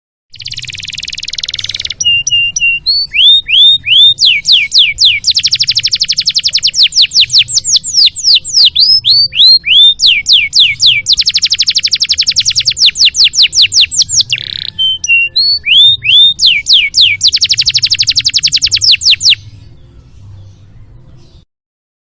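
Domestic canary singing a long, loud song: a harsh buzzy opening, then runs of sharp down-slurred whistles alternating with very fast rolling trills. The song stops abruptly about 21 seconds in.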